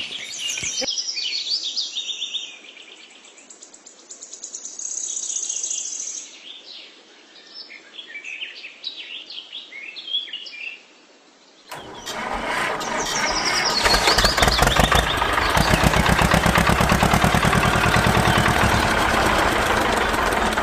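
Birds chirping for the first twelve seconds or so. Then, abruptly, a loud motor or engine starts up and runs steadily with a fast, even pulsing.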